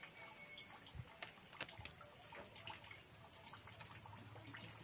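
Light rain: faint, scattered drops ticking and dripping at an uneven pace.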